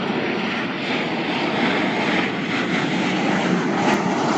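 Jet airliner engines running, a loud, steady rushing noise.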